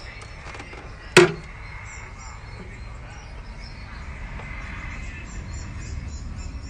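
A single sharp knock about a second in, over a steady low rumble.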